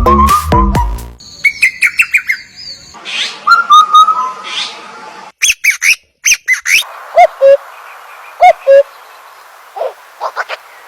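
Electronic dance music with a thumping beat for about the first second, then birds calling: groups of short, sharp chirps and whistling notes, some rising and falling in pitch, with abrupt changes in the background hiss between groups.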